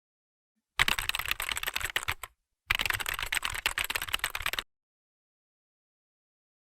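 Rapid keyboard typing clicks in two bursts of about one and a half and two seconds, with a brief pause between them.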